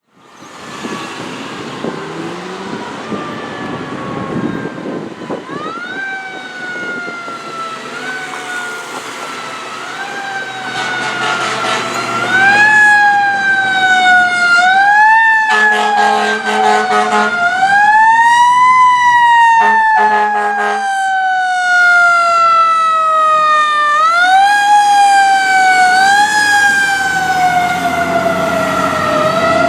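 Fire apparatus sirens wailing in repeated rising and falling sweeps, growing louder as the trucks approach about halfway through, with two long horn blasts in the middle.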